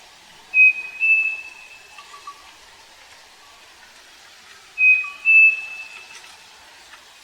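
Striped cuckoo (saci) singing its two-note whistled song twice, a few seconds apart. Each song is a clear whistle followed by a slightly higher, longer held note.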